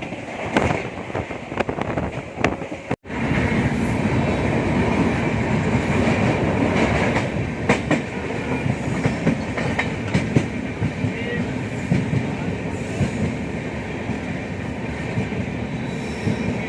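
Running noise of the moving Paschim Express express passenger train: a steady rumble of coach wheels on the rails with scattered clicks over rail joints. The sound cuts out for an instant about three seconds in, then the rumble carries on.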